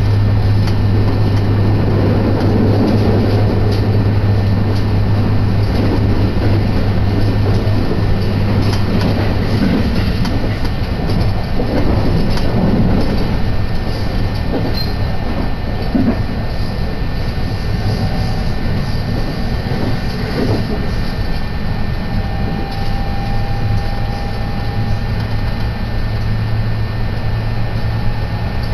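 JR Kyoto Line electric commuter train running, heard from inside the passenger car: a steady low hum under continuous wheel and track noise.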